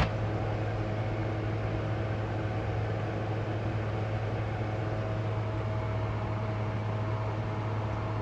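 A steady, unchanging mechanical hum with an even hiss, and one sharp click right at the start.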